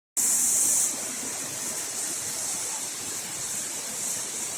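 Steady hissing rush of a waterfall, louder for about the first second and then even.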